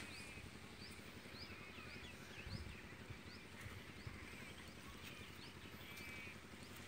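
A small bird chirping faintly and over and over: short rising chirps about twice a second, with a few brief twittering phrases in between.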